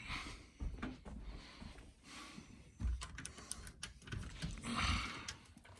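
Soft footsteps and camera handling noise, with a quick run of light clicks about three seconds in as a door is opened.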